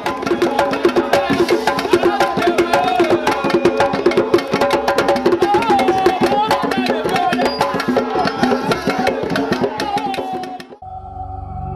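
Traditional African percussion music: fast, dense drumming with wooden percussion and a wavering melody line above. It cuts off abruptly near the end, giving way to a different, sustained low-pitched sound.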